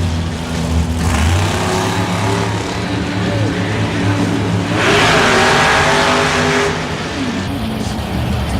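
Monster truck's supercharged V8 engine running and revving, its pitch rising and falling with the throttle. About five seconds in, a louder surge of noise lasts under two seconds.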